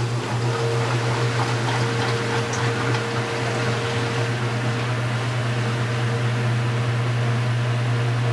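2015 Speed Queen 8 Series top-load washing machine running: a steady low motor hum over an even rushing noise, with a higher tone sounding for the first few seconds.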